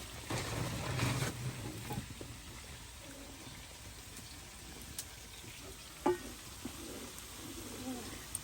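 Food frying in a pot, a steady sizzle, with stirring scrapes in the first second or so and a single knock about six seconds in.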